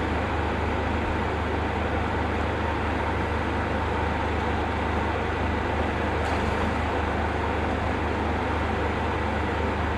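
Steady engine drone and road traffic noise, with no distinct crashes or impacts.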